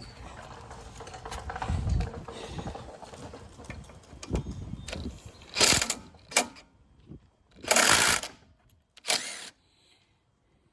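Hand tools working on a Honda HRX217 lawnmower as a fitting by the fuel line is loosened: irregular clicking and metal handling noises, then three louder short bursts of noise in the second half.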